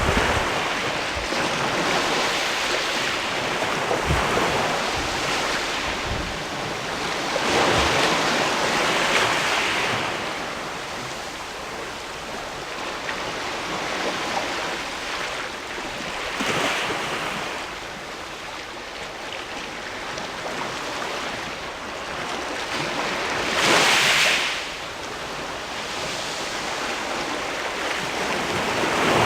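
Small sea waves washing in against a rocky shore, a continuous wash that swells and ebbs every few seconds. Stronger surges come about a third of the way in, around the middle and near the end.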